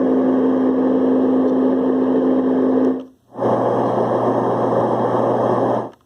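LectroFan white noise machine playing two of its fan-sound settings in turn at maximum volume. Each is a steady rushing noise with a steady hum, the first with a higher hum and the second with a lower one. A brief silence about three seconds in marks the switch between them.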